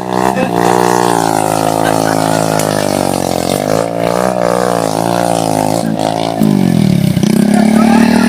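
Motorcycle engine revving, its pitch wavering up and down. Near the end it dips sharply, then climbs back to a steadier, louder note.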